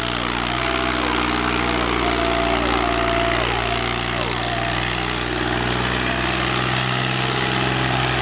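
Diesel tractor engine running steadily at constant speed.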